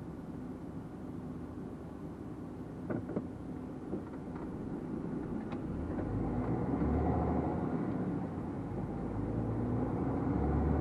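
Truck's diesel engine and road noise heard from inside the cab, running steadily, then growing louder about six seconds in, with a few light clicks.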